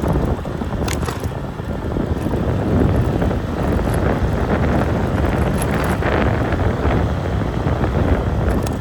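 Steady, loud low rumble of wind buffeting the microphone, with a couple of brief clicks.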